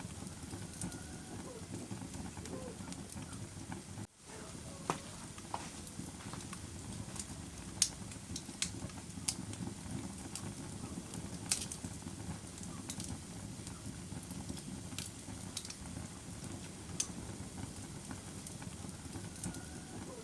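Wood fire crackling in a fireplace: a steady low rustle of burning logs with sharp pops scattered irregularly through it. The sound drops out for an instant about four seconds in.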